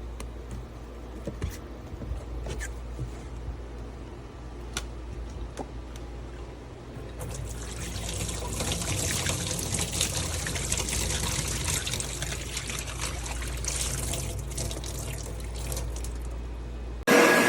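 Water pouring and trickling for about nine seconds over a low steady hum. Just before the end, a carpet cleaner's motor switches on abruptly and runs loud and steady.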